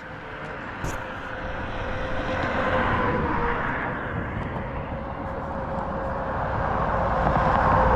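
A distant engine's steady drone with a held hum, slowly building louder and peaking near the end.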